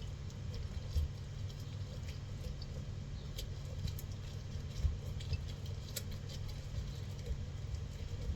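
Scattered light clicks and taps of hands and utensils at work over fruit for fruit chaat, over a steady low rumble, with a few sharper knocks.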